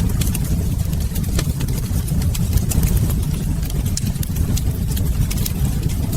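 Wood fire burning in a fireplace: a steady low rumble of flames, with frequent small sharp crackles and pops.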